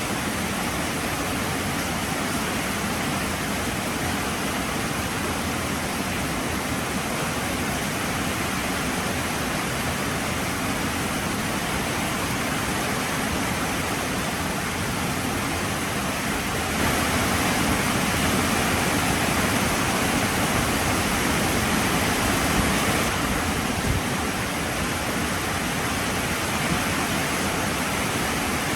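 Heavy rain falling steadily, a dense even hiss that grows louder for about six seconds past the middle, then settles back.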